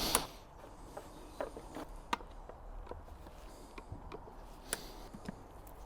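Scattered light clicks and taps of a motorbike's plastic airbox parts being handled as the airbox is opened up to reach the air filter.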